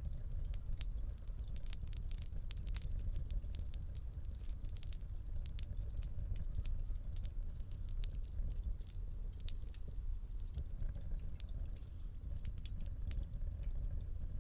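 Wood fire crackling, with many small sharp pops and snaps over a steady low rumble of burning.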